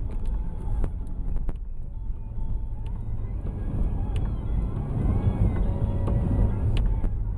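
A car driving slowly along snowy streets: steady engine and tyre rumble, with a few sharp knocks or clicks.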